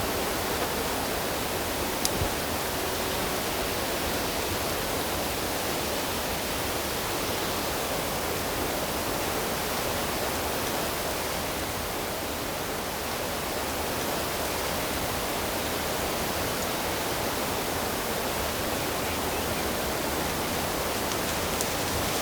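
Steady rushing water, such as a stream or small waterfall: an even, unbroken hiss with no distinct splashes or bird calls.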